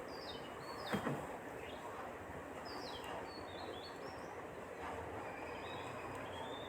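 Small birds chirping repeatedly in the background, short downward-swooping calls, with a single light knock about a second in.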